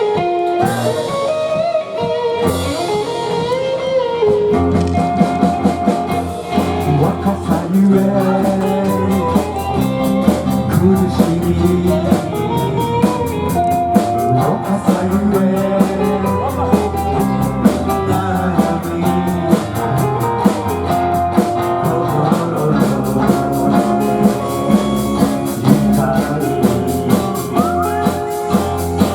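Live band music: electric guitars and bass over a drum kit keeping a steady beat with cymbals.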